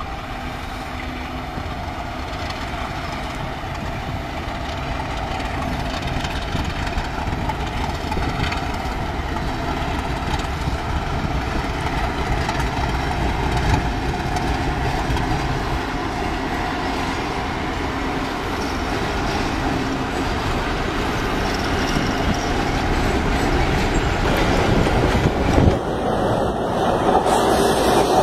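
A freight train rolling past: a diesel locomotive, then a long line of freight wagons, with a steady rumble and wheel clatter on the rails that slowly grows louder. About two seconds before the end the sound cuts abruptly to another train.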